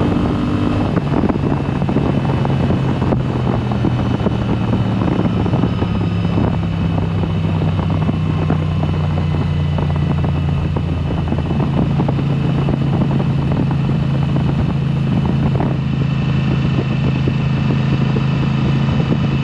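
2022 Moto Guzzi V7 Special's air-cooled transverse V-twin running through a Mistral exhaust with the dB killers removed, heard while riding. The engine pitch drops about a second in, then holds steady over constant wind and road noise.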